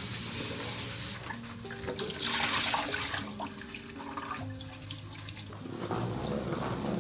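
Water running from a tap in two short spells, over soft background music with slow held notes.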